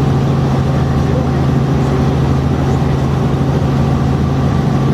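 Helicopter in flight, its engine and rotors making a loud, steady drone with a strong low hum.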